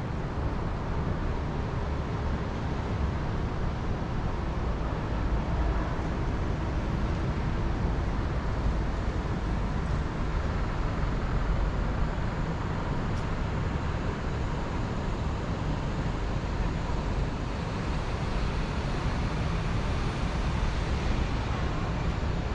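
Steady wind with a low rumble, unbroken throughout.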